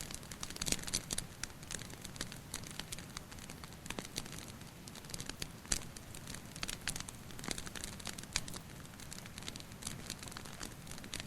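Wood fire crackling, with frequent irregular sharp pops over a steady low hiss, and rain water dripping in the mix.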